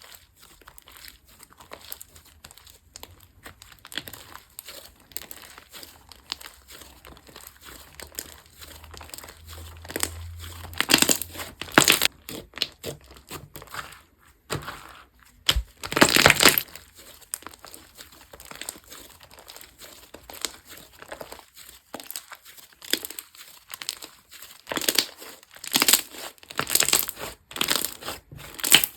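Hands pressing and squishing slime, giving a run of crinkling, crackling sounds. The louder crunches come around the middle and in a cluster near the end.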